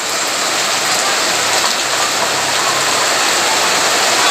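Heavy rain falling and pattering on the ground, a dense steady hiss.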